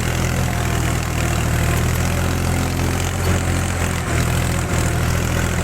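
Powertrac 434 4x4 tractor's diesel engine running steadily under heavy load, pulling a 14-disc harrow through wet soil.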